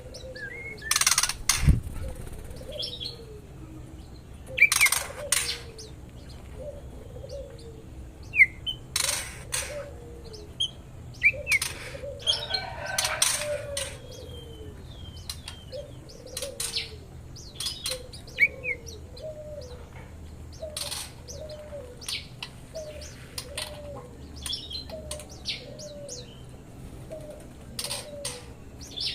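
Songbirds in a small aviary: wings flapping in short flurries every few seconds, short sharp chirps, and a low two-note call repeating about once a second.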